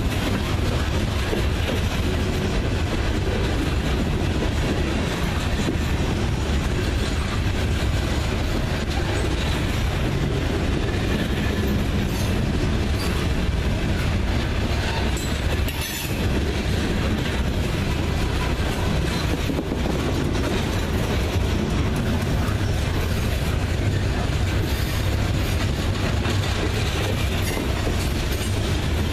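Loaded coal hopper cars of a freight train rolling past steadily, a continuous rumble of steel wheels on the rails.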